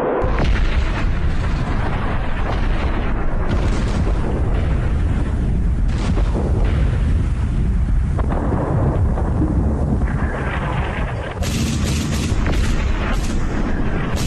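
Battlefield sound of artillery fire: a continuous heavy rumble of blasts and booms. After a brief dip about eleven seconds in, dense sharp cracks of gunfire come in over the rumble.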